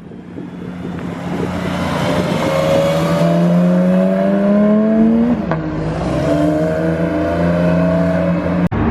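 Sports car engine accelerating hard away, its pitch climbing steadily, dropping at a gear change about five seconds in, then climbing again.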